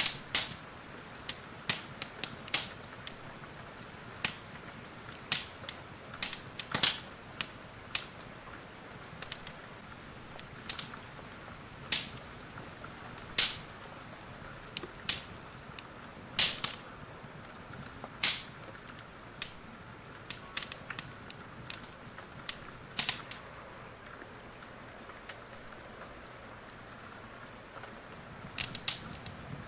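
Wood fire in a fireplace crackling, with irregular sharp pops, some much louder than others, over a steady hiss of rain.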